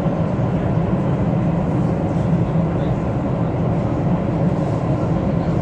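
Steady running noise heard inside the cabin of a moving CNR Changchun-built metro train (MTR South Island Line EMU): an even low hum with a hiss above it, unchanging throughout.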